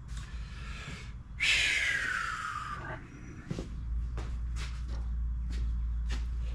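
Motor oil poured from a bottle into a push mower's crankcase fill neck: a rush about a second and a half long whose pitch falls as the bottle empties, followed by a few light clicks. A low steady hum starts about halfway through.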